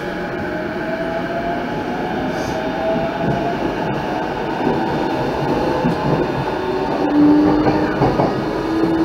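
Electric commuter train heard from inside the carriage as it accelerates away from a station: the traction motors' whine climbs steadily in pitch over the rumble of wheels on rail, growing a little louder as the train gathers speed.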